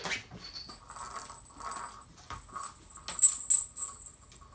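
Small metal bell jingling with light clicks and taps: a jingle-bell cat toy being batted about by playing kittens.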